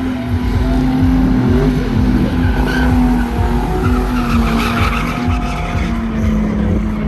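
Pickup truck engine held at high revs while its rear tyres spin and squeal in a burnout. The tyre noise swells for a few seconds in the middle.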